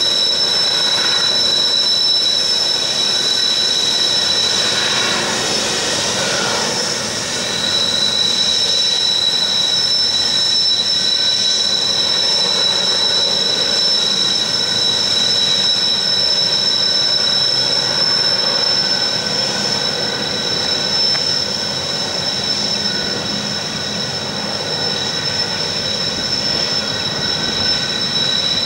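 Loaded grain train climbing a grade, with a diesel banking locomotive working mid-train: the wagons rumble past under a steady, high two-note wheel squeal.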